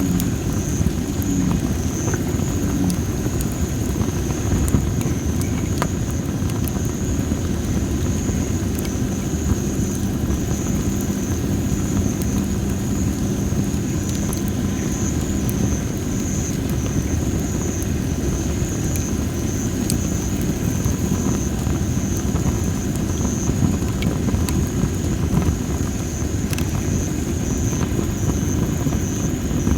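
Dry masaki firewood burning in a fire pit, with sparse, scattered crackles and pops. Under it runs a steady low rumble, and a steady high insect-like trill sits above everything.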